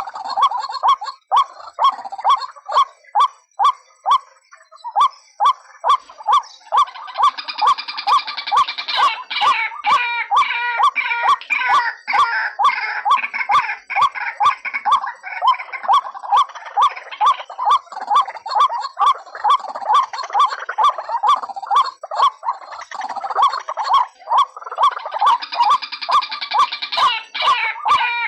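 White-breasted waterhen calling: a steady run of short repeated notes, about two to three a second. Twice, for several seconds, a denser, rougher chorus of calls joins in over them.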